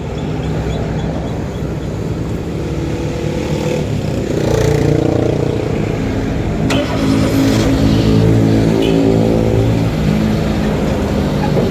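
Car engine running, its revs rising about four seconds in and again from about seven to ten seconds. There is a sharp click partway through.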